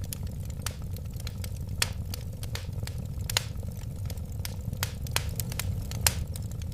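Wood fire burning in a fireplace: a steady low rumble of flames with sharp, irregular crackles and pops, several a second, a few of them louder.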